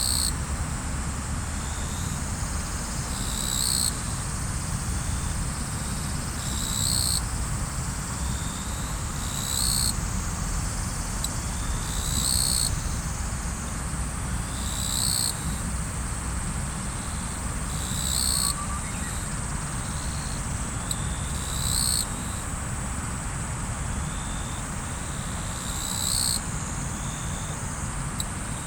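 Riverside ambience: river water running as a steady low rush, with an insect trilling high and constant and swelling into short louder pulses about every three seconds.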